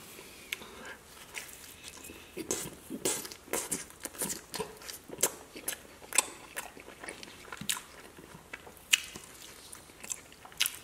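Chewing and biting of Domino's pizza crust dipped in ranch, with sharp crunchy mouth clicks about once or twice a second.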